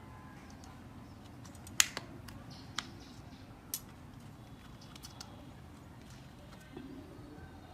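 A few sharp, light clicks and taps of small parts handled during hand assembly of a concrete hammer drill, over a low steady background hum; the loudest click comes about two seconds in.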